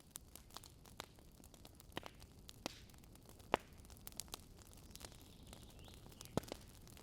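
Wood campfire crackling: irregular sharp pops and snaps of burning wood, the loudest about halfway through and another shortly before the end, over a faint steady hiss.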